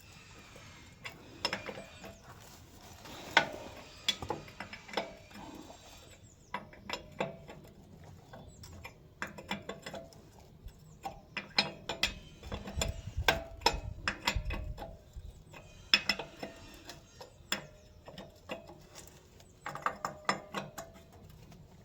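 Hand tools working on metal fittings as bolts are tightened: irregular sharp clicks and clinks throughout, with a few louder knocks and a denser run of clicking near the middle.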